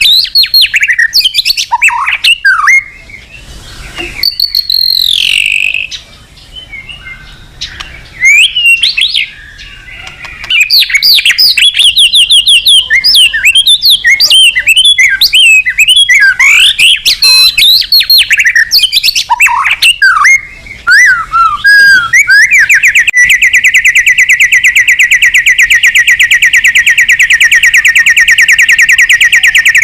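White-rumped shama singing a loud, varied song of quick whistles and chirps. Near the end it breaks into a long, fast trill of rapidly repeated notes.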